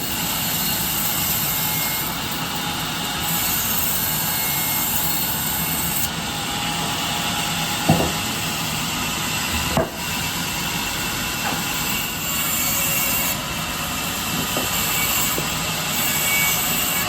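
Power saw cutting wood, running steadily with a dense hiss, with two sharp knocks about eight and ten seconds in.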